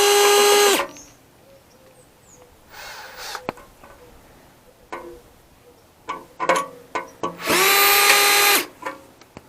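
Power drill/driver whirring in two steady bursts of about a second each, one at the start and one about eight seconds in, as screws are backed out of the server rack's sheet metal. Light clicks and clinks of metal parts in between.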